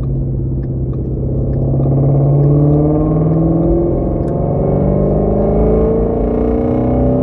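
Ford Shelby GT350's 5.2-litre flat-plane-crank V8 running steadily through a resonator-deleted, open-valve exhaust while cruising. It gets louder about a second in, and a few faint crackles from the exhaust come through.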